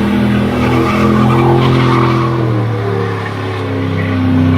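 A vehicle engine running at steady, loud revs with tires squealing and skidding, a held pitch that steps down about halfway through.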